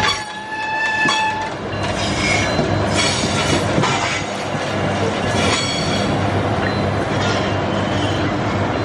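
Train running past with its wheels clattering and squealing on the rails, over a steady locomotive hum. A horn-like tone sounds in the first second or so.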